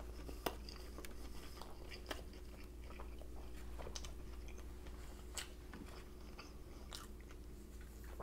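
A person biting into an eight-patty Big Mac and chewing it: faint wet mouth sounds with a few sharp clicks and smacks.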